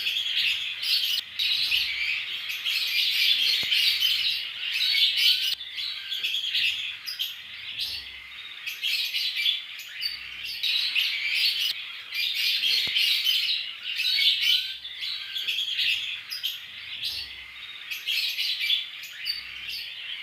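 A flock of Fischer's lovebirds chattering: many shrill chirps overlapping in a continuous, busy din that swells and dips.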